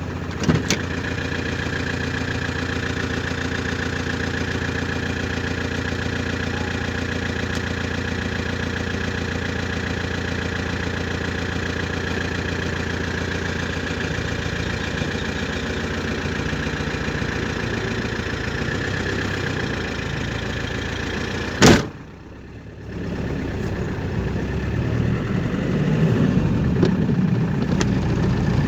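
Car engine running steadily. Two sharp clicks, the louder one about three-quarters of the way through, followed by a brief drop in level before the engine sound comes back louder.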